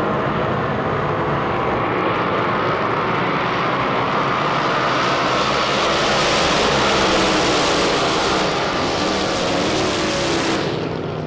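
High-powered drag boat engine running hard, its pitch sliding up and down and the sound growing harsher toward the middle, with the high end cutting off abruptly near the end.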